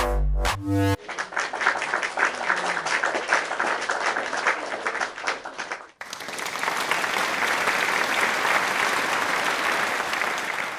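Music stops about a second in, then an audience applauds; about halfway the sound cuts abruptly to a denser, fuller round of applause.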